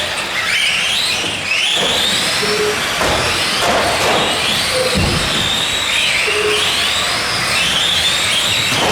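Several Tamiya Euro Truck RC racing trucks with electric motors whining together as they race, the overlapping whines rising and falling in pitch as the trucks speed up and slow down. There is a low thud about five seconds in.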